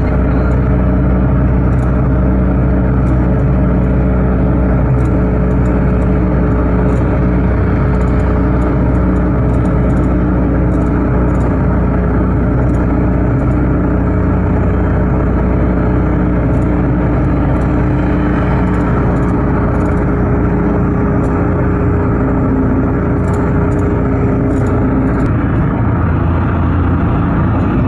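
A car driving at a steady speed: constant engine hum and road noise, with a steady tone in the hum that drops out near the end.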